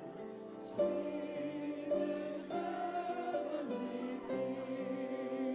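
Choir singing a slow, sustained carol-like melody, with notes changing about once a second.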